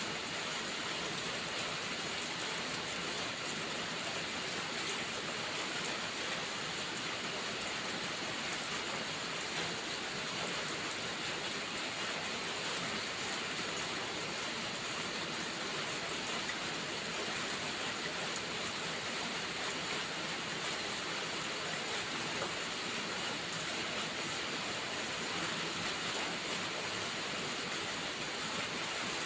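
Steady rain falling: an even, unbroken hiss of many drops at a constant level.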